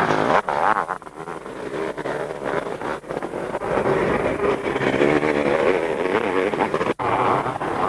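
Motocross motorcycle engines revving, their pitch wavering up and down as the bikes ride the course, with a brief cut-out in the sound near the end.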